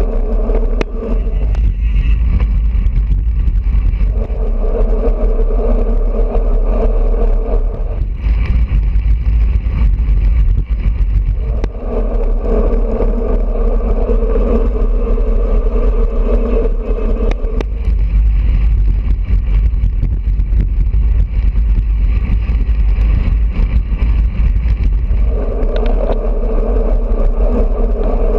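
Wind rumbling over the GoPro's microphone on a moving road bicycle. A steady hum comes and goes in stretches of several seconds.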